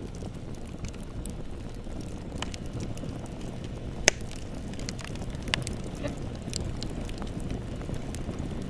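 Bonfire burning with a steady low rumble and scattered crackles and pops of burning wood, the sharpest pop about four seconds in.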